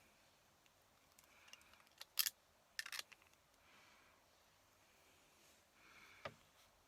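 Fountain pen and desk handling: a few sharp clicks about two and three seconds in and a single knock near the end, with faint soft scratching of the nib on paper between them.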